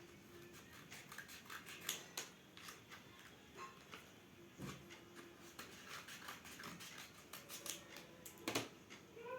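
Irregular clicks, taps and rustles of school supplies and their packaging being handled, with sharper snaps about two seconds in and again near the end.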